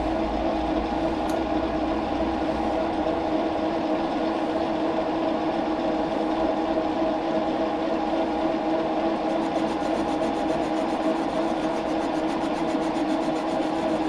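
Steady hum of shop machinery running, holding two constant low tones, with faint rapid ticking joining about nine seconds in.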